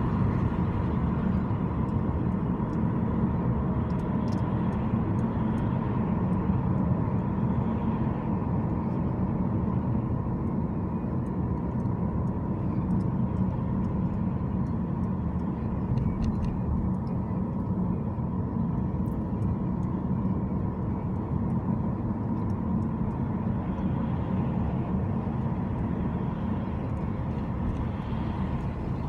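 A car driving at a steady pace, with a continuous low rumble of road and engine noise and a faint steady high tone on top.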